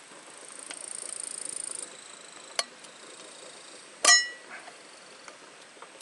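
A high buzz swells for about the first two seconds and stops abruptly. A light tap follows, then a sharp metallic clink that rings briefly, the loudest sound, typical of a utensil striking camp cookware.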